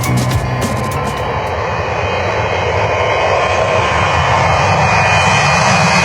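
Jet airliner engines running at high power, a steady broad rushing noise that slowly grows louder as the aircraft draws nearer.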